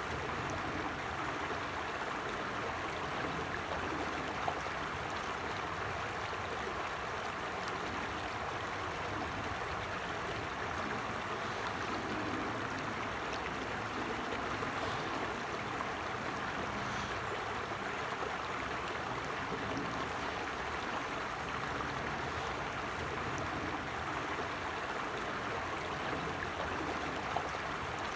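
A stream flowing steadily over stones, a continuous even rush of water.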